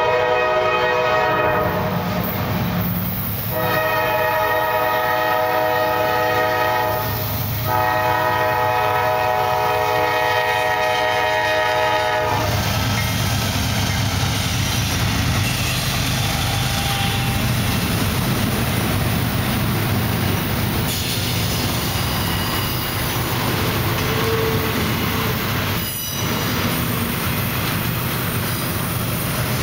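CSX diesel locomotive's air horn blowing for the grade crossing in long blasts with short gaps, the last held until the locomotive reaches the crossing about twelve seconds in. Then the locomotive's diesel engine and the wheels of double-stack intermodal cars roll past close by: a steady rumble and clatter, with one sharp clank near the end.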